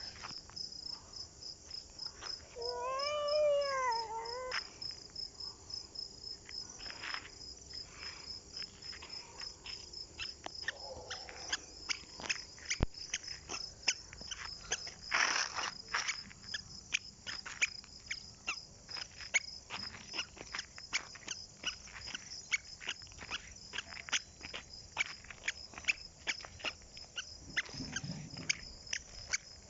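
Insects chirring steadily in a high, rapidly pulsing trill, with many short sharp clicks or chirps scattered throughout. One drawn-out pitched cry rises and falls a few seconds in.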